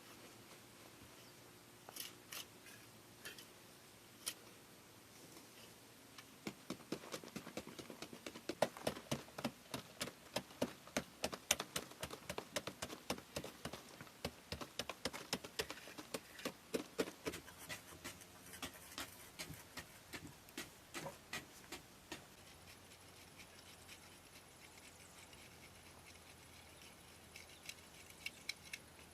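Light knocks and taps, a few at first, then a quick run of several a second from about six seconds in until about twenty-two seconds in, with a few more near the end.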